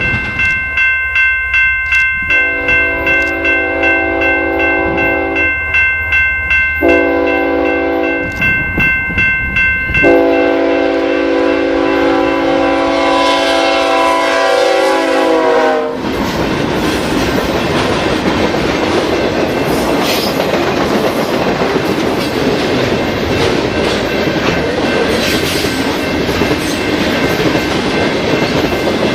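Train horn blown in three blasts, the last one long and dropping in pitch as the locomotive passes. A bell rings steadily at about two strokes a second through the first blasts. Then the train rolls by with steady wheel and rail noise.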